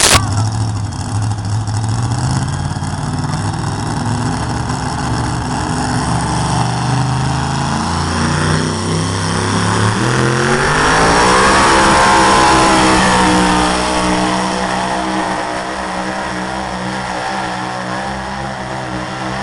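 Pulling vehicle's engine running loud and steady under load, then revving up: its pitch rises over about two seconds around the middle and holds at the higher note.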